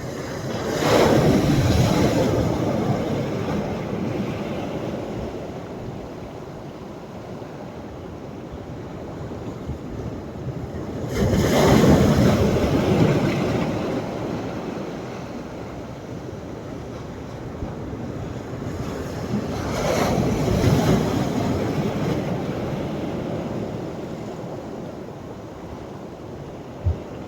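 Sea waves breaking on the shore three times, roughly ten seconds apart, each surge swelling and then fading into a long wash. A brief low thump near the end.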